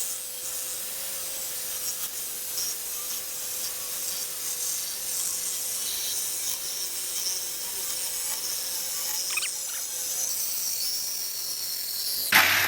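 Power tool cutting through a thin, rusty steel exhaust pipe: a steady high hiss over a steady motor tone. It stops abruptly near the end with a brief loud bang.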